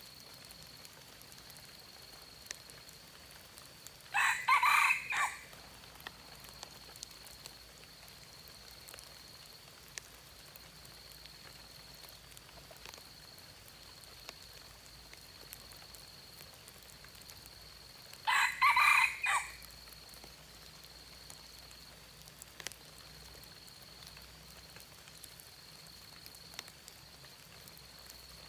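Red junglefowl rooster crowing twice, about fourteen seconds apart, each crow short, a little over a second. A steady high-pitched tone runs underneath, with a few faint ticks.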